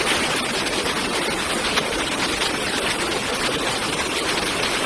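Steady rushing roar of fast-flowing floodwater.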